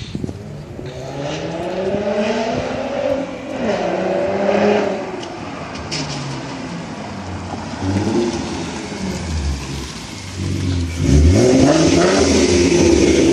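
2014 Ford Mustang's 3.7-litre V6 through a Roush axle-back exhaust, revving up and down several times, loudest near the end.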